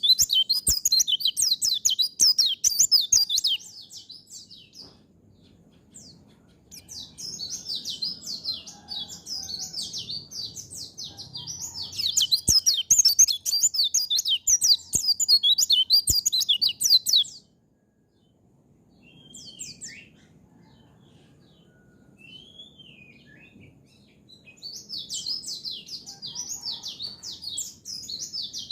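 White-eye (pleci) singing long runs of fast, high twittering song broken by pauses, with a few short separate call notes in the longest gap.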